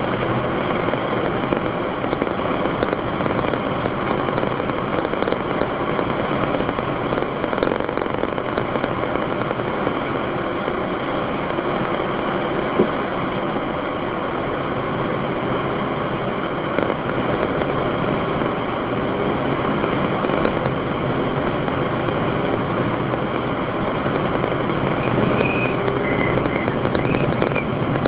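Steady rushing road and engine noise of a car on the move, heard from inside, with one sharp click about halfway through.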